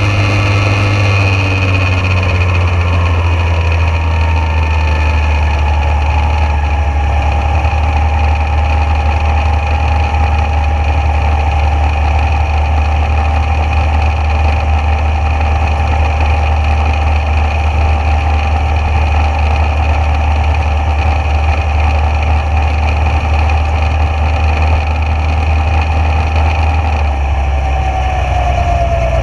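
Junior dragster engine idling steadily, with a steady low hum and a whine that slowly falls in pitch, then drops again near the end.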